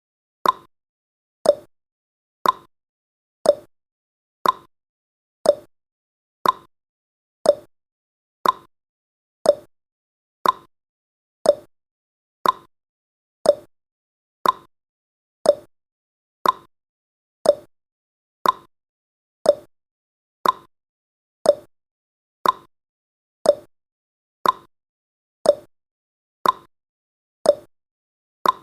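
Clock-style tick-tock sound effect marking each second of a countdown: one short click a second, alternating a higher tick with a lower tock, steady throughout.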